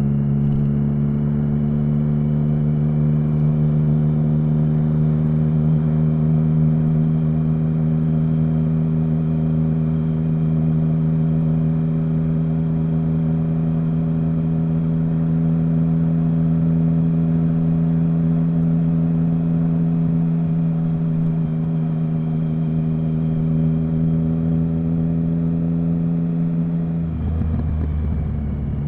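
Triumph Speed Triple 1050's inline three-cylinder engine running at a steady engine speed, a constant low drone. About 27 seconds in, the note briefly breaks off and then picks up again.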